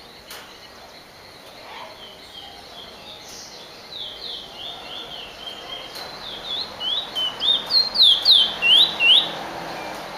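Finch singing a fast run of short downward-slurred whistled notes, starting faint and growing louder. The song stops suddenly near the end.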